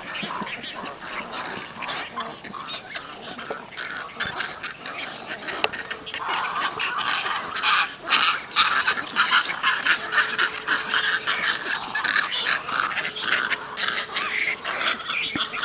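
A heron and egret nesting colony calling: many birds and their chicks giving short, overlapping calls at once in a dense, continuous din that grows louder about six seconds in.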